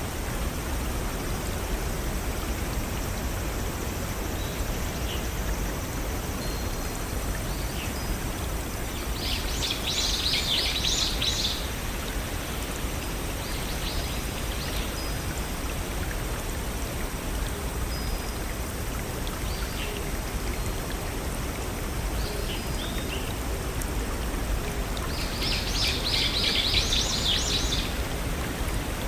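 Steady rush of water from a small forest waterfall and brook, with a songbird singing a short, rapid, high-pitched phrase twice, about ten seconds in and again near the end, and a few faint chirps between.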